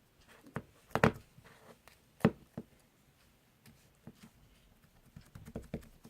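Scattered short knocks and clicks, the loudest about one second and two seconds in, with a small cluster near the end.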